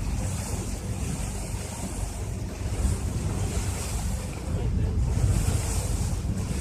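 Motorboat under way at sea: wind buffeting the microphone over rushing water and a low steady rumble, with swells of hiss every second or so.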